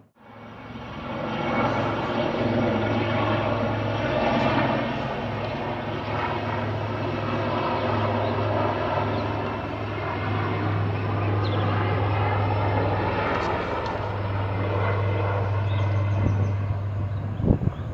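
Helicopter in flight: steady engine and rotor noise with a strong low hum, coming in after a cut and holding level. A few sharp knocks of wind on the microphone come near the end.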